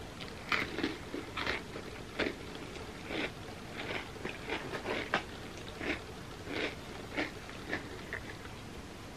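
Chewing a Nutter Butter peanut butter sandwich cookie coated in soft chocolate dip: soft crunches in an uneven rhythm, about one or two a second.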